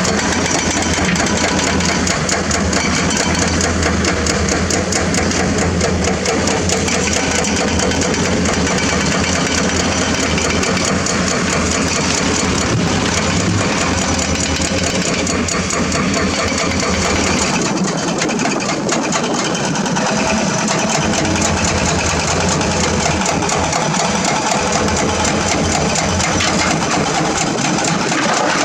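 Heavy diesel engines of excavators and dump trucks running steadily. The deep low rumble eases off about two-thirds of the way through while the engine noise carries on.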